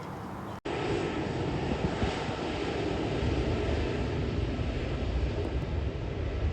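Qatar Airways Airbus A380 jet engines rumbling steadily as it arrives. The sound cuts in abruptly about half a second in.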